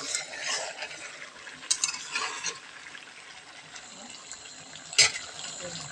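Stirring and scraping in a cooking pot of curry, with utensil clinks against the pot and one sharp metallic clink about five seconds in, over a steady low hiss.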